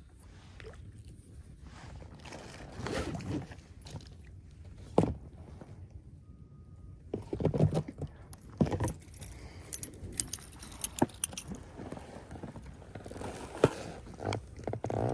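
Scattered knocks and clicks with light metallic jingling, loudest in the second half, with a short quiet gap around the middle.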